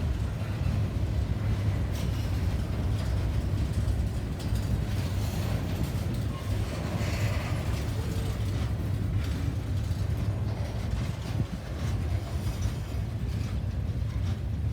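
Train rolling by, a steady low rumble with scattered clicks and rattles from the rail cars.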